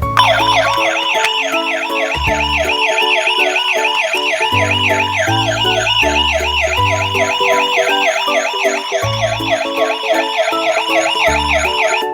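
Emergency-vehicle siren sound, a fast yelp rising and falling about four times a second, starting abruptly and cutting off about twelve seconds later. Background music with a bass line runs underneath.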